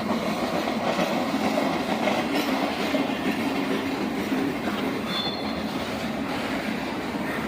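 Railroad cars rolling past on the track: a steady rumble of wheels on rail, with a brief high wheel squeal about five seconds in.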